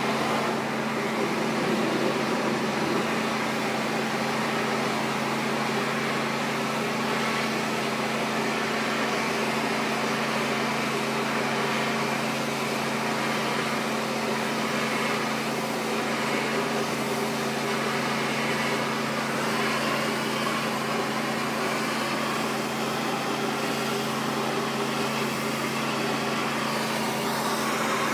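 Pressure washer running steadily: a constant engine hum with an even hiss over it, unbroken throughout.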